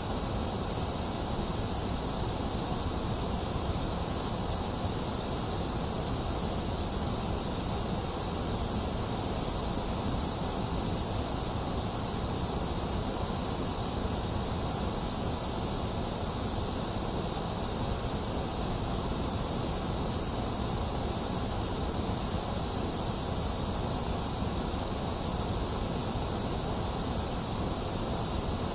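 Box fan running steadily together with falling rain: an even, unchanging hiss, brightest in the high range, over a low rumble.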